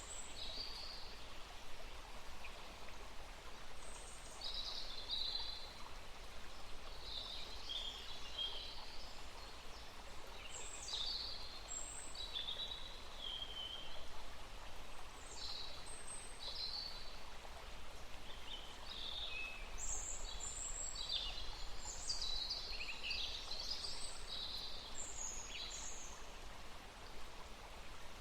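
Wild birds singing short chirping and warbling phrases in scattered bursts, busiest in the second half, over a steady background hiss.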